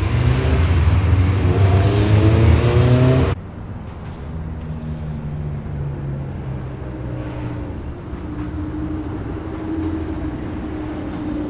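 A red hatchback's engine revving hard as it accelerates past, its pitch climbing, cut off suddenly about three seconds in. Then a Lamborghini Gallardo's V10 running at low, steady revs as it cruises up and past, much quieter.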